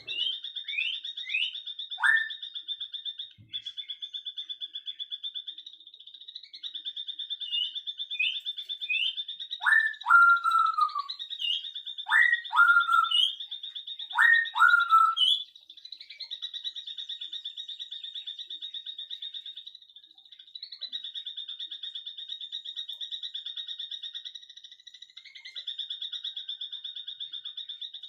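Evening bird and animal chorus: a steady, rapidly pulsing high trill runs throughout, with short high bird chirps and four loud bird calls in the first half, the last three each a quick sweep followed by a short held note.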